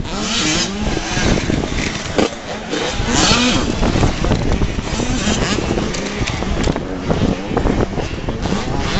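Motocross bikes racing, their engines revving up and down as they accelerate and shift.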